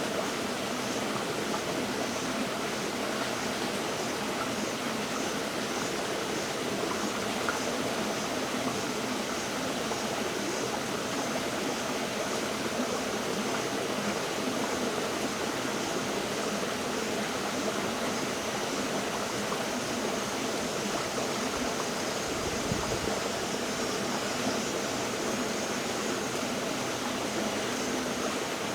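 River water flowing steadily, an even rushing with fine bubbling. A brief low rumble comes in about two-thirds of the way through.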